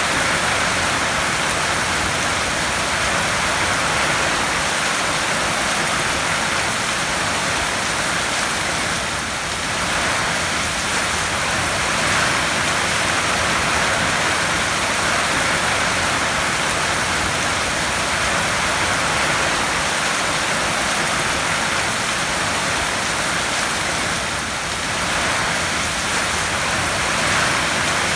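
Heavy rain falling on a tin roof: a steady, dense patter and hiss that eases slightly twice, about ten and twenty-five seconds in.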